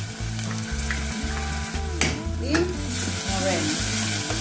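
Chopped onion and minced garlic sizzling in hot oil in a stainless steel pot, stirred with a wooden spoon, with a knock about two seconds in and scraping strokes after it. Low background music runs underneath.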